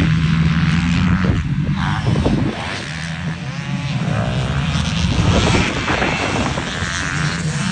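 Motocross bike engines running and revving on the track, the pitch rising and falling with the throttle. A steady engine note drops away about two and a half seconds in.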